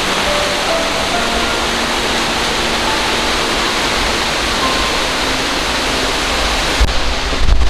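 Otaru Falls, a waterfall, pouring steadily as a dense, even rush of falling water. Near the end the high hiss dips briefly and low bumps hit the microphone.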